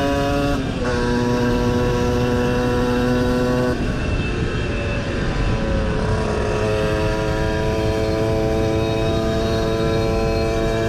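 60 cc two-stroke moped engine running at high revs while riding, a steady high tone. The pitch steps down slightly about half a second in; around the middle the tone breaks up into rough noise for a few seconds, then it comes back steady.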